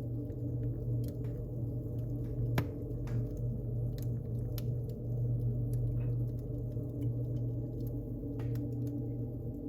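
Wood fire burning in a fireplace: a steady low rumble with scattered crackles and pops, the sharpest about two and a half seconds in.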